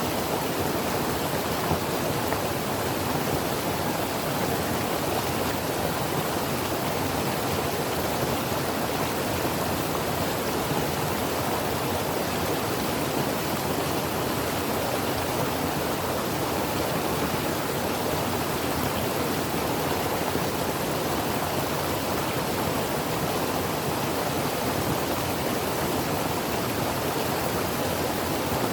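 Creek water flowing and burbling over rocks, a steady even rush with no breaks.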